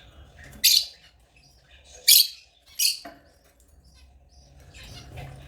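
African lovebirds chirping: three loud, short, high-pitched calls about a second apart near the start, with softer chirps between and after.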